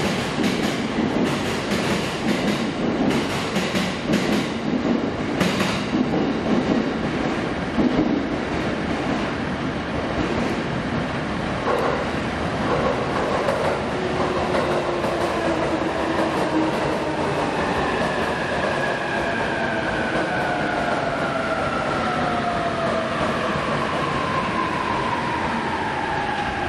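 Electric train moving on the rails, its wheels clacking over rail joints for the first several seconds. From about halfway the motor whine sinks steadily in pitch as the train slows, braking into the station.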